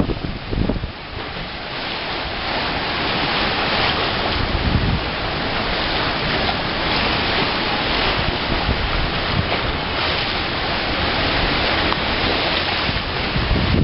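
Rough sea in a typhoon storm surge: waves and surf rushing in a steady, loud roar, driven by strong wind. Gusts buff the microphone at the start and again near the end.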